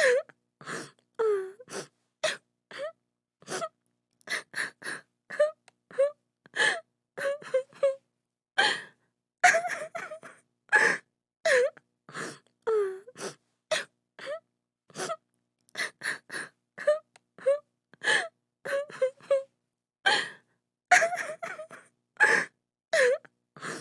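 A woman crying hard: short gasping sobs and wails, one after another with brief silent gaps, some sliding in pitch.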